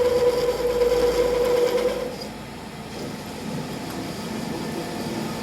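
A workshop machine's motor running with a steady hum, then cutting out about two seconds in; quieter workshop noise follows.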